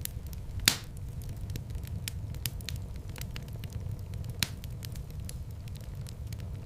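Wood fire in a fireplace crackling steadily over a low rumble of flames, with a loud pop under a second in and another sharp pop about four seconds in.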